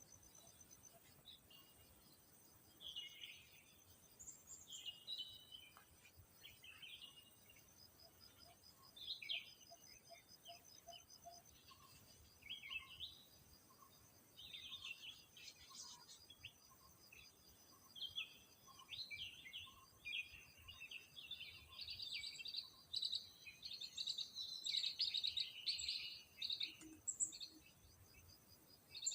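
Birds calling in short, chirpy phrases that grow busier and louder toward the end, over a steady high insect trill.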